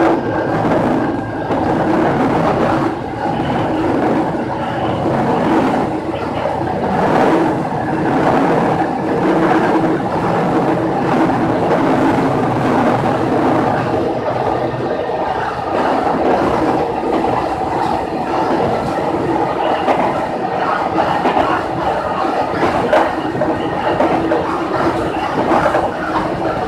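Kashima Rinkai Railway diesel railcar running along the line, heard from inside the driver's cab: a steady engine and running noise, with wheels clacking over rail joints now and then.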